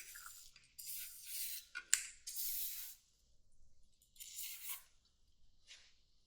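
Kroil penetrating oil sprayed in three short hissing bursts onto stuck carburetor screws, with a sharp click about two seconds in.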